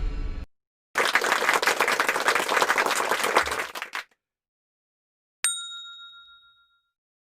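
Sound effects: a burst of applause, dense clapping for about three seconds, then after a pause a single bright ding, a bell-like chime that rings and fades over about a second.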